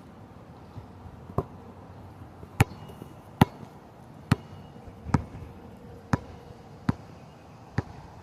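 A series of eight sharp knocks, about one a second, each short and sudden; the third and fourth are the loudest.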